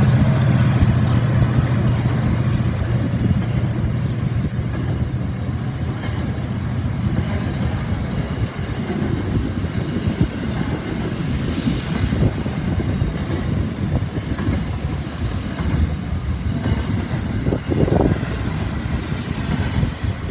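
Freight train wagons rolling past, a continuous low rumble with the clickety-clack of wheels over rail joints. The locomotives' engine drone fades out at the start, and the clatter grows louder near the end.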